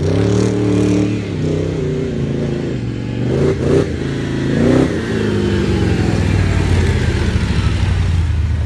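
Mercedes G-Class rally truck's V8 engine running and revving. It gives quick rises in pitch about three and a half and five seconds in, then settles into a steady drone.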